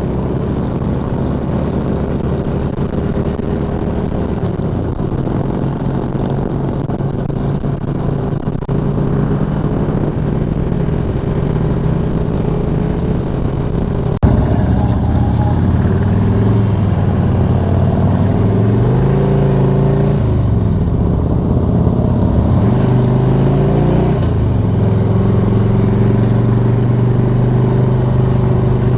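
V-twin cruiser motorcycle engines running on the road, with the engine note dropping and climbing again several times as the bikes slow and pull away, louder from about halfway through.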